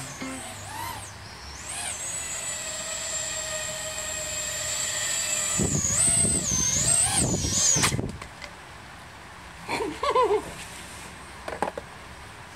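Small 3-inch FPV quadcopter's brushless motors and HQ 3x4x3 props whining at a steady high pitch. The pitch dips and rises with throttle changes, then cuts off about eight seconds in.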